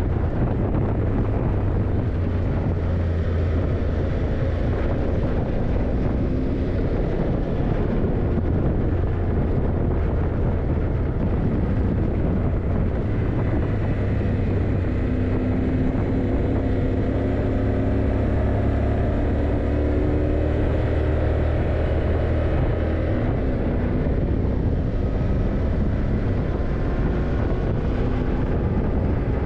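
Yamaha TDM900's parallel-twin engine running on the move, its note rising and falling gently as the throttle changes, with wind rushing over the microphone.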